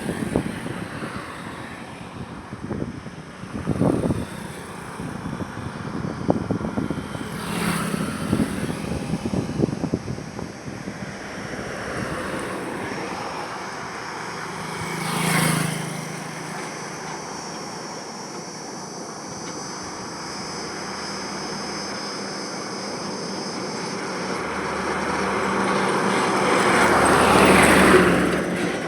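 Highway traffic with vehicles passing one after another. One goes by quickly about halfway through, and a louder one builds up and passes near the end.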